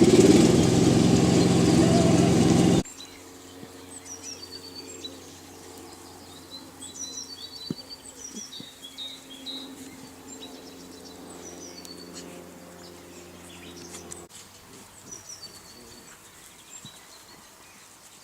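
A loud, noisy opening cuts off suddenly about three seconds in. After it, small birds chirp again and again in short, high, partly falling notes over a quiet outdoor background.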